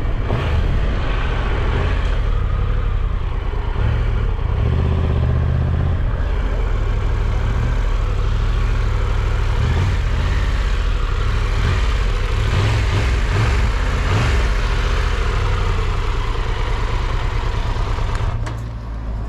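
Triumph Tiger 1200 Rally Pro's three-cylinder engine running under way, mixed with steady wind rumble on the rider's microphone. The sound eases off somewhat near the end.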